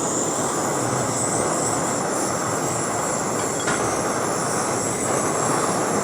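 Small handheld propane torch burning steadily, a continuous rushing flame noise with a faint high hiss, heating a steel rod for bending.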